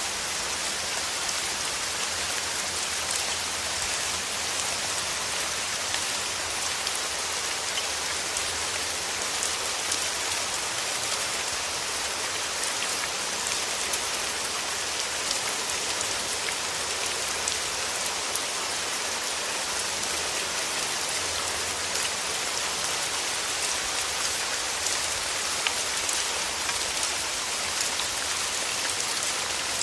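Steady rain falling: a continuous even hiss with many scattered, distinct drop ticks on top.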